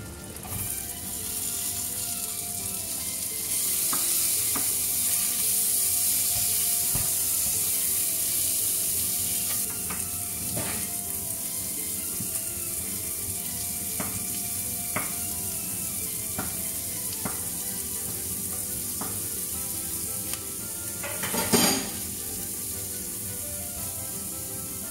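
Sliced red onions and garlic sizzling in hot butter and sausage fat in a nonstick frying pan, the sizzle building over the first few seconds. A spatula clicks against the pan now and then as they are stirred, with one louder knock near the end.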